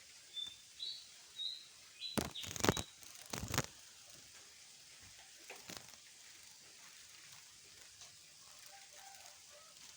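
Bird chirping: four short, high chirps in the first two seconds. A few sharp knocks or clatters follow between about two and four seconds in, with one more near the six-second mark.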